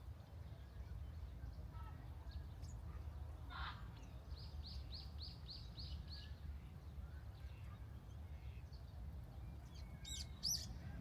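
Small birds calling outdoors: a quick run of about seven repeated high notes a few seconds in, and a couple of sharp chirps near the end, over a steady low rumble.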